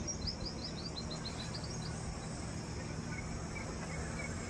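A bird calling: a quick run of short, high chirps, about seven a second, through the first couple of seconds, over steady low background noise.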